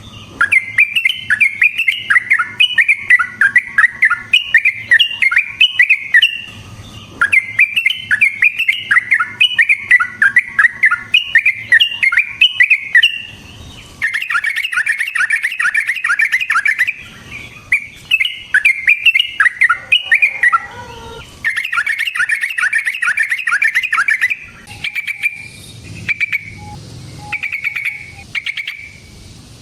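Yellow-vented bulbul (trucukan) singing long runs of rapid, bubbly chattering notes, each run several seconds long with short breaks between, giving way to shorter, spaced single notes near the end.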